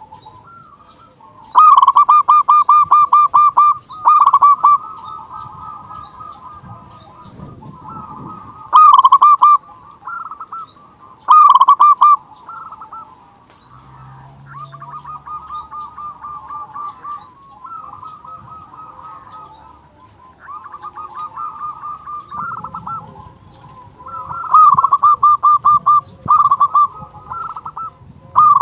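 Zebra dove (perkutut) cooing: fast runs of short, clipped notes, several loud bursts of a second or two each, with quieter cooing runs in between.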